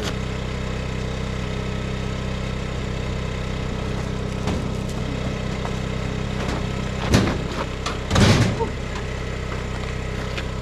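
Generator engine running steadily. A sharp knock comes about seven seconds in, and a louder rattling clatter follows about a second later.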